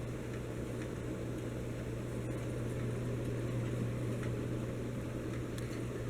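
42-inch Heritage Furneaux ceiling fan running at a steady speed, its motor giving a low, constant hum over a soft rush of air.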